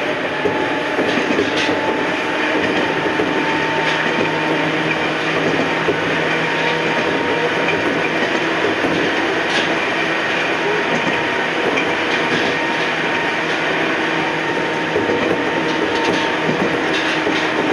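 Ohmi Railway electric train running along the line: a steady rumble of wheels on rail with a constant hum from the running gear. A few sharp clicks from the wheels passing rail joints, one near the middle and one near the end.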